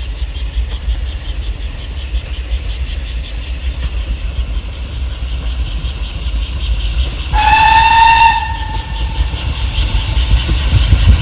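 A steam locomotive whistle gives one short blast of about a second, two-thirds of the way through, over a steady low rumble. The rumble grows louder near the end.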